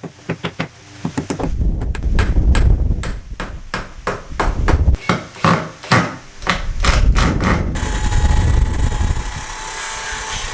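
Hammer blows on timber, a quick irregular run of knocks at several a second. About seven and a half seconds in, a power tool starts and runs steadily with a thin whine.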